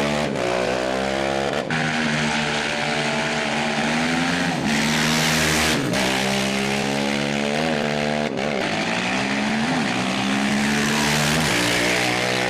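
Off-road racing motorcycle engine running hard, its pitch climbing and then dropping sharply several times as it shifts through the gears.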